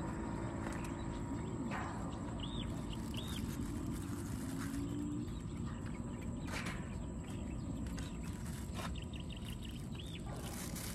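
Birds calling outdoors: short arching chirps and a couple of quick runs of notes, over a steady low background rumble, with two brief noises about two and six and a half seconds in.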